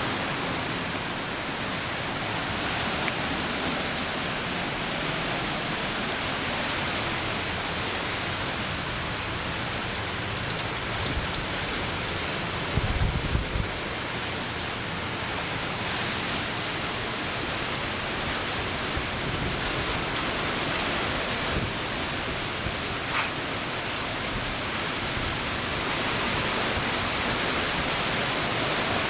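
Hurricane Wilma's wind and rain as a steady, unbroken rush of noise, with a gust buffeting the microphone in a brief low rumble about thirteen seconds in.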